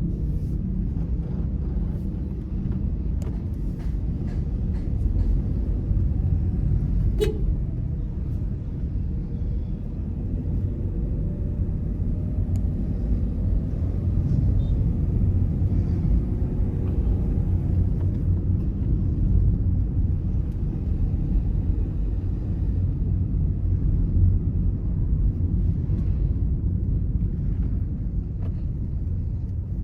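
Car driving along a road: a steady low rumble of engine and tyre noise, with a short sharp click about seven seconds in.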